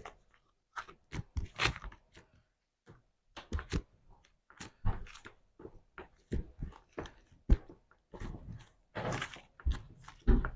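Slime being squeezed and pressed by hand, giving irregular sticky clicks and pops, with a longer squelch near the end.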